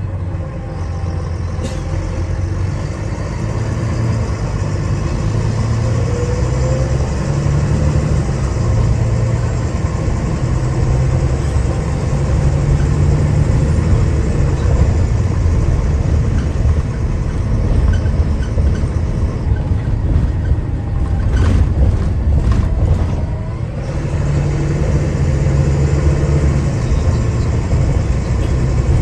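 Diesel engine of a Wright Eclipse Gemini 2 double-decker bus heard from inside the saloon, pulling hard with its low note stepping up and down as the automatic gearbox changes gear. It eases off briefly about three quarters of the way through, with a few rattling clicks just before, then picks up again.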